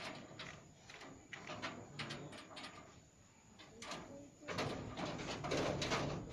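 Alexandrine parakeet calling in a series of short calls, with a louder, denser stretch of sound in the last couple of seconds.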